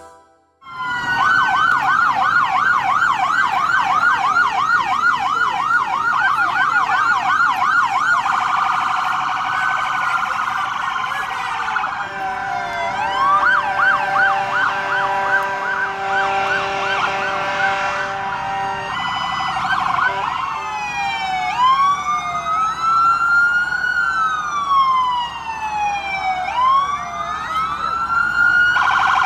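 Emergency-vehicle sirens. A fast yelp warbles about three times a second, then switches to slow rising-and-falling wails, and from about two-thirds of the way in several sirens overlap out of step.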